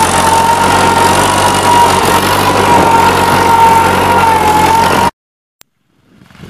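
Ford 9N tractor's four-cylinder engine running steadily under the load of plowing, with a steady high tone over it; the sound cuts off abruptly about five seconds in.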